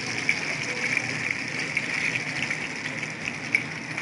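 Chicken lollipops deep-frying in hot oil: a steady sizzle with frequent small crackling pops.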